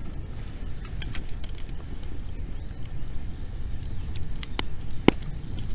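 Wood bonfire crackling, with a few sharp pops, the loudest about five seconds in, over a steady low rumble.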